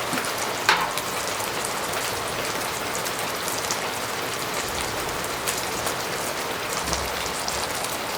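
Steady rain falling on a tent, with scattered single drops ticking against it and one sharp tap just under a second in.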